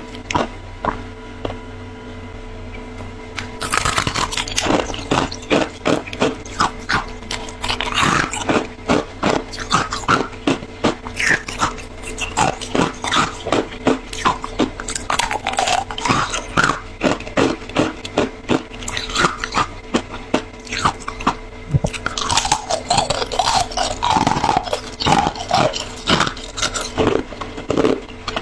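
Close-up crunching and chewing of fresh frost: sparse crunches at first, then a dense run of rapid bites from a few seconds in. A steady low hum sits underneath.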